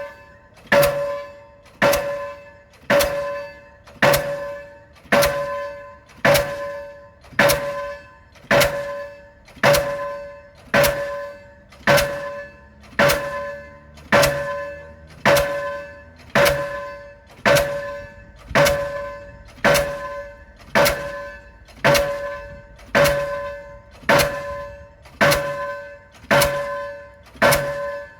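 Delmag D46-32 diesel pile hammer driving a 450 mm prestressed concrete (PHC) pile: a steady run of heavy blows, about one a second, each with a short metallic ring.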